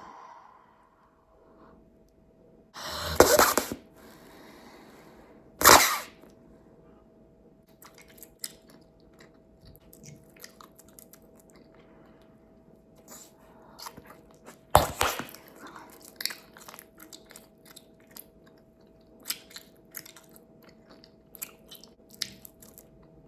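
Bubblegum being chewed with many small wet clicks and snaps. There is a louder, longer burst about three seconds in, then sharp loud pops near six and fifteen seconds: bubbles being sucked in and popped.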